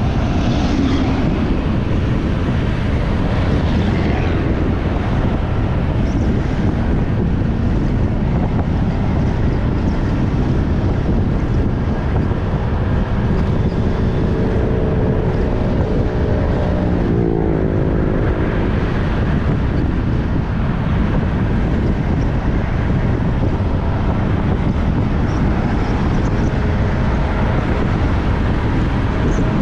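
Wind rushing over the microphone on a moving motorbike, mixed with steady engine and road noise. About 17 seconds in, an engine note drops in pitch.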